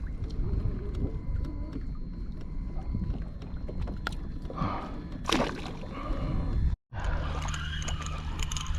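Water sloshing and gurgling against a kayak hull, with small knocks and clicks from handling gear on board. The sound drops out completely for a moment about seven seconds in.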